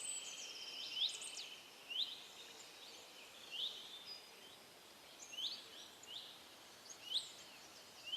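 Wild birds calling outdoors: short, rising notes repeated about once a second, with a few higher chirps from other birds, over a faint steady background hiss.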